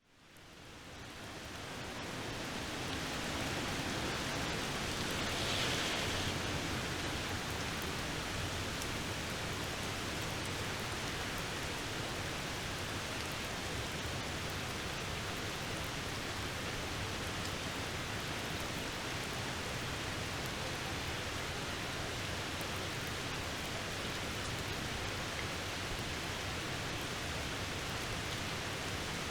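Steady rain falling, an even hiss with scattered faint drop ticks, fading in over the first couple of seconds and briefly swelling a little louder around six seconds in.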